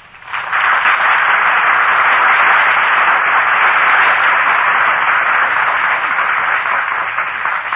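Studio audience applause, a steady dense clapping that fades slightly near the end, heard through an old broadcast recording.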